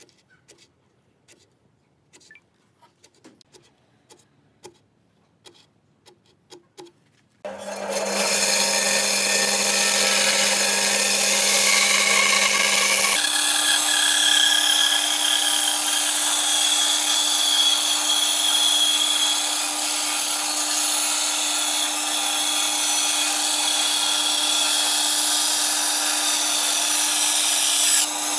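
A few light taps and clicks, then about seven seconds in an electric power tool starts and runs steadily on wood. About five seconds later its motor hum steps up to a higher pitch and holds there.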